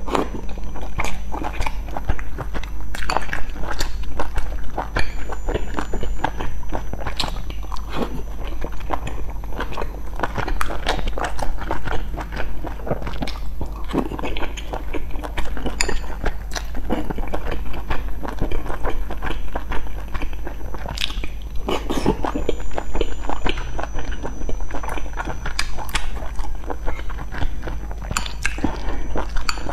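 A person chewing dumplings close to the microphone: dense, irregular chewing and mouth clicks with no pause, over a steady low hum.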